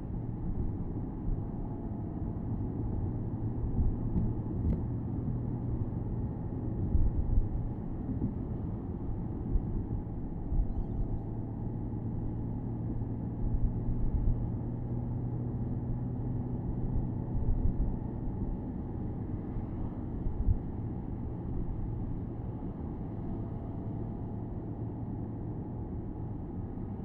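Porsche Boxster S 987.2's 3.4-litre flat-six running steadily at cruise, heard from the open-top cabin with low road rumble and uneven swells of wind noise.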